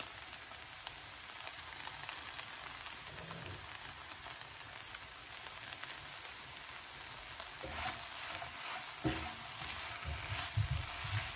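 Sabudana khichdi sizzling in a nonstick frying pan: a steady hiss with small crackles. Near the end a spatula stirs through it, adding low knocks against the pan.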